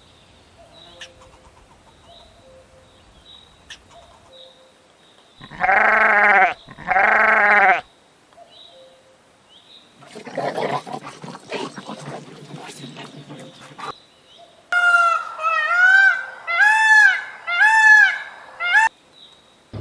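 Farm animal calls: after faint chirping, a goat bleats twice with long, loud calls. Then comes a rough, noisy stretch of about four seconds, and near the end a run of five short calls, each rising and falling in pitch.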